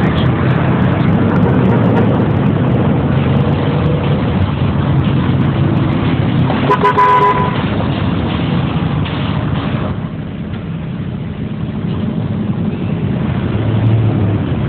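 Car running, with a steady engine and road rumble and a short horn toot about seven seconds in.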